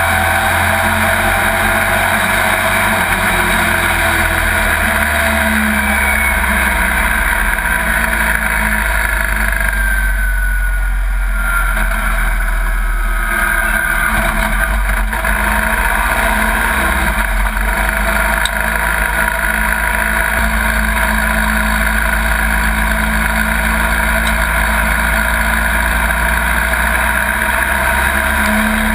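Pro Truck stock-car racing pickup's engine running loud and continuous, heard from inside the cab, with a low rumble underneath and the pitch sliding slightly as the revs change around the track.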